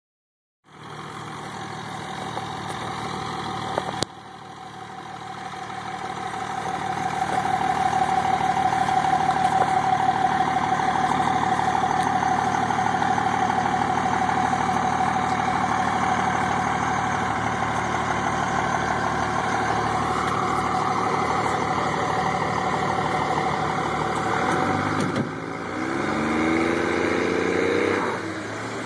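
Dodge Ram's Cummins turbo diesel engine working under load while pulling out a stuck Ford truck, running steadily with a high whine. A sharp knock comes about four seconds in, then the engine builds up. Near the end it revs with rising sweeps and then eases off.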